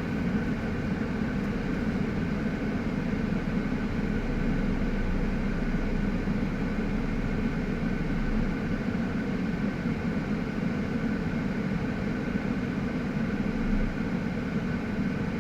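Steady drone of a heavy engine running at a constant idle-like speed, with a low hum and several faint steady tones above it.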